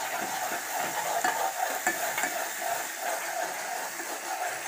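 Onion and masala paste sizzling in hot oil in a metal pot, with a metal spoon stirring and scraping against the pot, giving scattered clicks over the steady frying.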